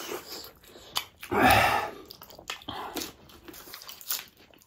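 Close-miked chewing and biting of food, with many small wet mouth clicks and, about a second and a half in, one louder half-second burst of crunching mouth noise.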